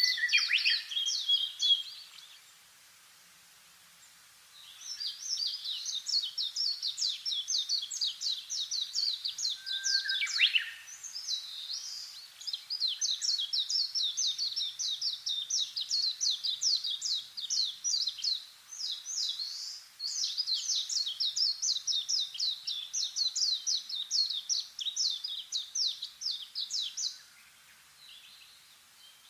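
A songbird giving long runs of rapid, high chirps in bouts, with a short pause a couple of seconds in and another near the end. A single falling note sounds about ten seconds in.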